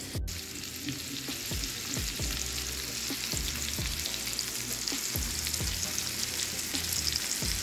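Seasoned chicken wings searing in hot oil and butter in a pan, a steady sizzle of frying.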